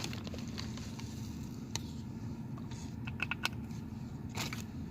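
Small clicks, light clinks and rattles of coffee creamer cups and sweetener packets being handled while coffee is prepared, with a cluster of short clinks about three seconds in. A steady low hum runs underneath.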